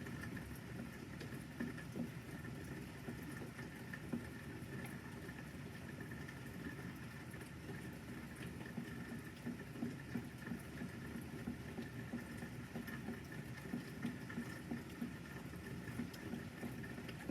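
Rain pattering steadily, with scattered louder drips tapping irregularly.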